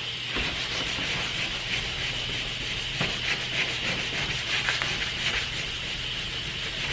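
Aerosol spray can of light primer hissing as a guide coat is dusted over bondo filler, with short uneven spurts through the spray.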